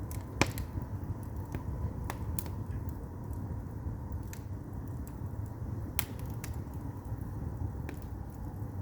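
Firewood burning in a Korean agungi firebox: a steady low rumble with scattered sharp crackles and pops of the burning wood, the loudest pop about half a second in.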